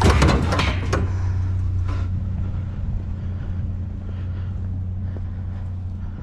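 A vehicle engine idling with a steady low hum. Loud clattering knocks from things being handled come in the first second, with a few fainter knocks later.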